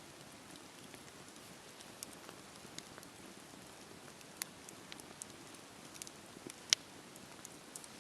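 Wood fire crackling: a faint steady hiss with irregular sharp pops and snaps, one much louder snap about three-quarters of the way in.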